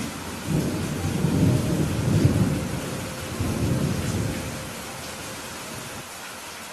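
Steady rain falling, with a low rumble of thunder that swells about half a second in, peaks around two seconds and dies away after about four seconds.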